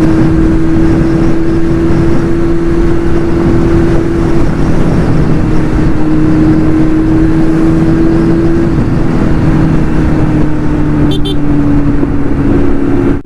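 Kawasaki Z900's inline-four with an aftermarket exhaust and performance air filter, running at steady cruising throttle, its note holding level and easing slightly lower over the last few seconds. Wind and road rush sound heavily over it.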